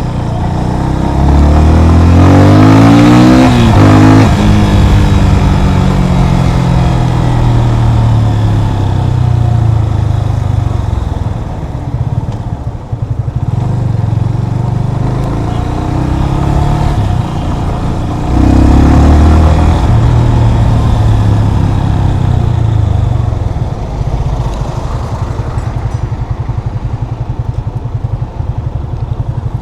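Yamaha FZ25's single-cylinder engine accelerating: the pitch rises from about a second in and drops suddenly near four seconds at an upshift, then eases off. A second pull-away starts about 18 seconds in, followed by steadier running.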